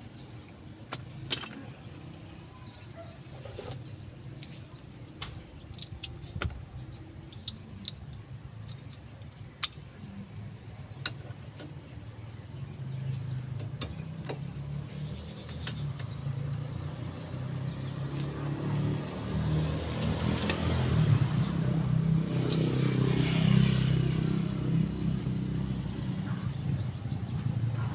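Scattered light clicks and knocks, then a motor vehicle's low engine rumble that builds up through the second half and is loudest about three-quarters of the way in.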